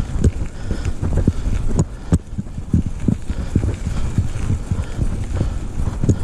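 Irregular low thumps and a few sharp clicks over a steady low rumble: a ride over rough trail, with wind buffeting the microphone.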